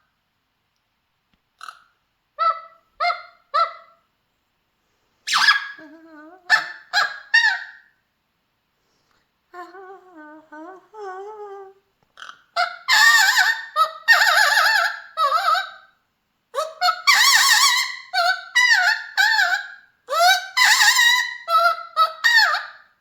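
Mealy Amazon parrot singing. It starts with a few short clipped notes, goes into a quieter, lower warbling stretch in the middle, then gives a run of loud calls that bend up and down in pitch through the second half.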